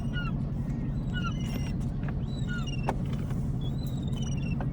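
Steady low motor drone, like a boat engine running, with small birds chirping over it again and again in short, high notes.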